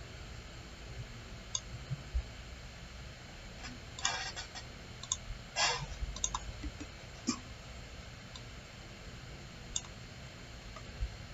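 Scattered clicks of a computer mouse during CAD work, a handful spread over several seconds with a short cluster about four seconds in, over faint low room hum.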